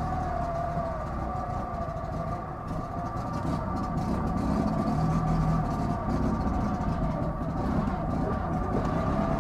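Fiat 126p's air-cooled two-cylinder engine running, heard from inside the cabin as the car drives slowly off along the course, with a steady whine over the engine note and getting a little louder a few seconds in. The engine is not running well, which the driver puts down to flooding and to the car standing unused for years.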